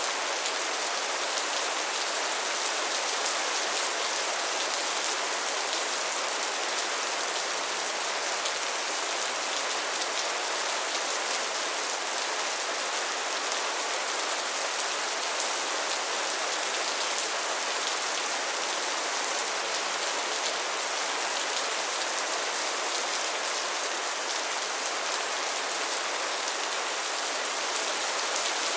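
Steady rain falling, an even hiss of many drops with faint patter, unchanging throughout.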